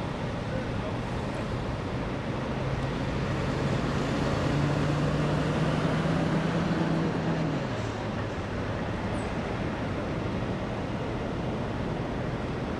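Freeway traffic noise, with one vehicle passing close by: its engine tone grows louder, then drops in pitch as it goes past about eight seconds in.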